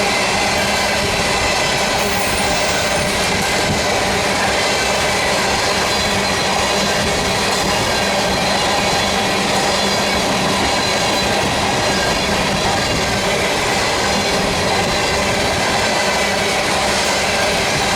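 Loaded oil tank cars of a freight train rolling past, a steady, unbroken noise of steel wheels on rail with faint thin whining tones over it.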